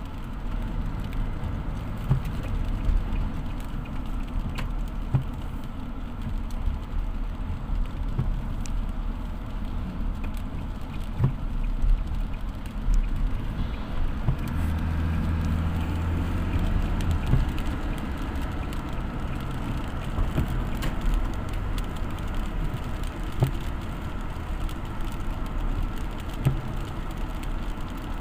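Road vehicle on the move in the rain: a steady low engine and road rumble with scattered knocks and patter, and an engine hum that comes up for a few seconds midway.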